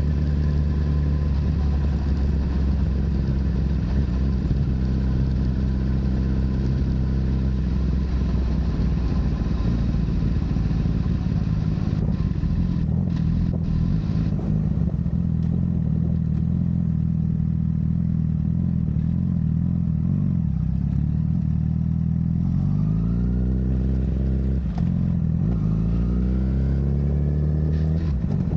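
Honda CBR1000RR inline-four with a Yoshimura full exhaust running at a steady engine speed, then revving up under acceleration about three quarters of the way in, dropping briefly as it shifts up, and climbing again near the end.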